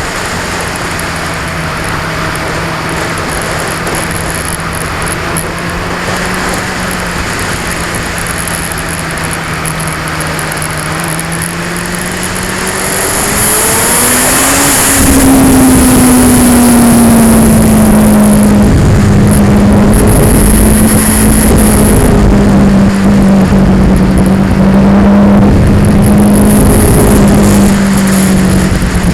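2002 Yamaha R6's inline-four engine running on the move, picked up by an action camera with vibration and wind noise. About halfway through the engine pitch climbs as it accelerates, then the sound turns much louder and rougher while the pitch slowly drops.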